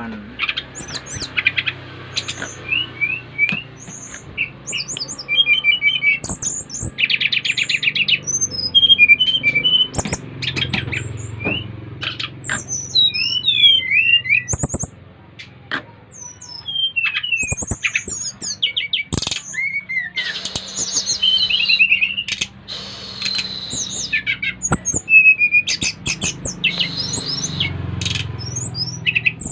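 Sikatan rimba dada coklat (brown-chested jungle flycatcher) singing a varied song of rapid chirps and whistles that rise and fall in pitch, with sharp clicks scattered through it.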